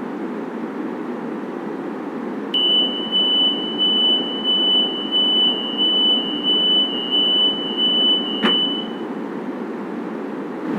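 Steady rumble inside a 1200-series LRT Line 1 train car, overlaid for about six seconds by a high electronic beeper pulsing about twice a second, typical of a door-closing warning, with a sharp click near the end of the beeping.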